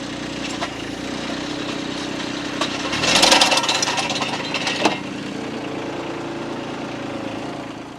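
Engine of a powered post-hole digger running steadily while boring a post hole in the ground, with a louder, noisier stretch and sharp knocks about three seconds in. The engine shuts off at the very end.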